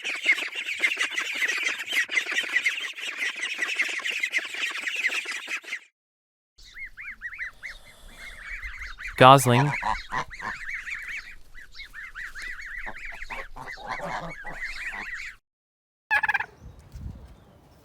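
Geese honking together for about six seconds, then after a short gap goslings peeping continuously in quick, high calls, with a few short calls near the end.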